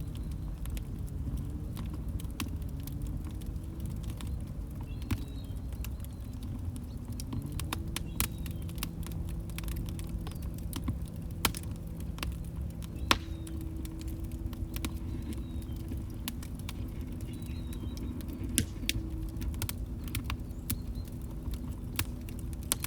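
Log fire crackling: scattered sharp snaps and pops, a few louder than the rest, over a steady low rumble of the burning fire.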